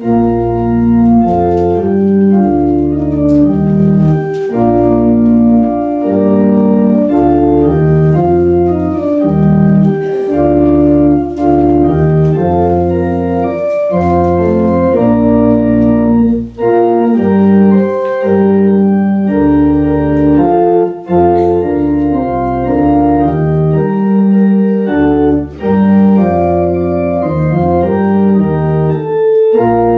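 Church organ playing a hymn tune in full sustained chords over low bass notes, starting suddenly at the outset.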